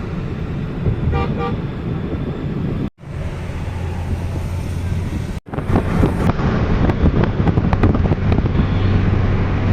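Road traffic noise with two short vehicle-horn toots about a second in. The sound breaks off twice, briefly, and after the second break the traffic noise is louder and busier.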